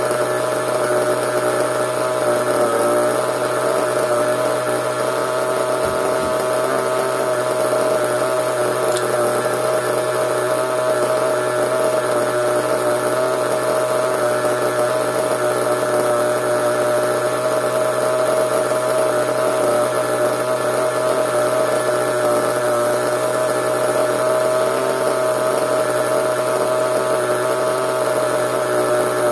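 Small nitro engine of an RC monster truck running steadily at a constant speed, with an even, unchanging pitch and no revving.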